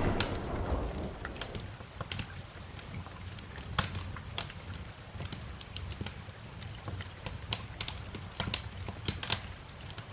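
Wood fire crackling with irregular sharp pops over faint steady rain, as the tail of a thunder rumble dies away in the first second.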